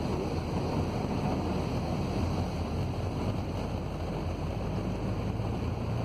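Steady low rumble and hiss of a vehicle on the move in heavy rain, with wind noise on the microphone.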